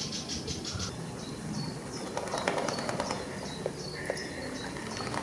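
Wild birds calling: a fast, high rattling trill dies away in the first second, then short high chirps repeat about twice a second, with a brief rustling burst near the middle.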